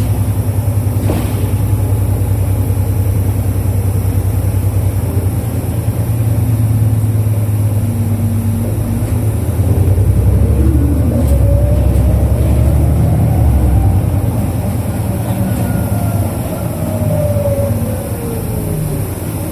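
Isuzu Erga KL-LV834 city bus's V8 diesel engine heard from inside the cabin while driving, a steady low drone. It grows louder from about halfway as the bus pulls harder, with a faint whine gliding up and back down. It eases off near the end.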